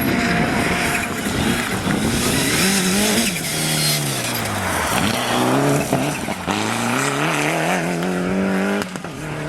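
Rally car engine under hard driving: the revs fall away for a couple of seconds as it slows, then climb twice through gearshifts about six and a half and nine seconds in, with tyres squealing.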